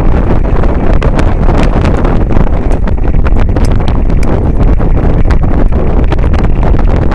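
Loud, steady rumble of wind buffeting the microphone on a moving boat, broken by frequent irregular sharp knocks and crackles.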